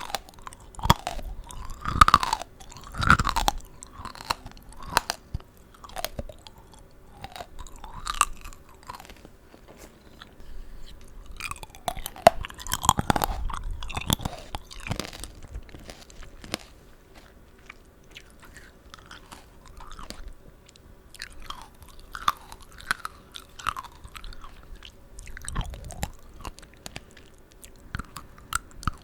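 Close-up chewing of tanghulu, fruit coated in a hardened sugar shell: the candy shell cracks and crunches in sharp clicks, with moist chewing of the juicy fruit. The loudest crunching comes in two spells, about two seconds in and again about twelve seconds in, then settles into softer chewing.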